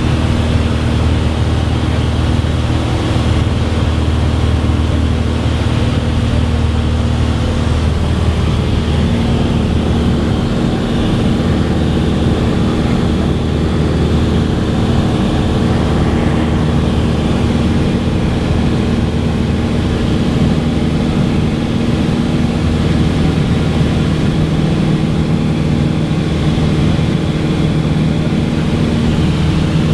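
Cessna 182's piston engine and propeller running with a steady drone; its low hum lines shift slightly about ten seconds in and again after about twenty seconds.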